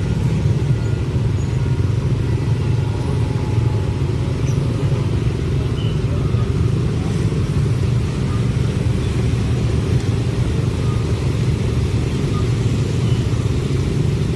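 Steady, loud low rumble of passing vehicles, with no distinct knocks or changes.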